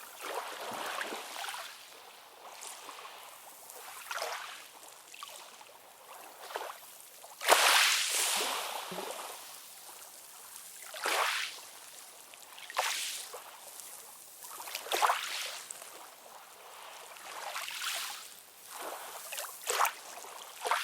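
Ocean waves lapping and splashing in uneven surges of hissing water with little deep rumble. The loudest splash comes about seven and a half seconds in.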